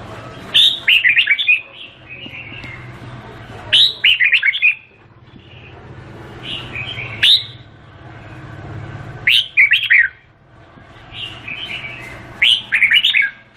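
Red-whiskered bulbul singing: five short, loud, warbling phrases about three seconds apart, with softer chattering calls in between.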